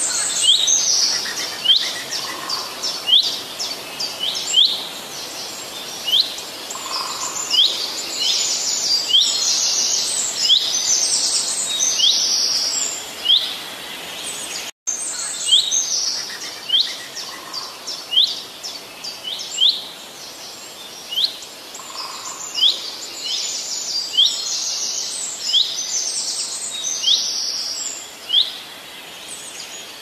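Small birds chirping: short, high chirps about one a second over a steady outdoor hiss, with a brief break about halfway through.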